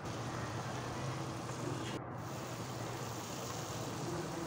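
Chicken pieces simmering and frying in oil and masala in a pot, a steady, fairly quiet sizzle.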